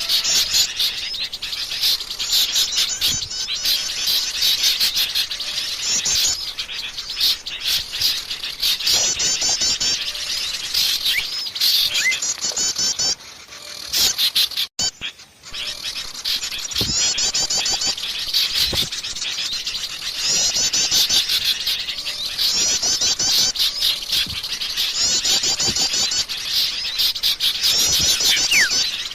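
A busy chorus of many small songbirds chirping and trilling over one another, with repeated rapid high trills, as used in a bird-lure recording. The chorus drops out briefly about halfway through.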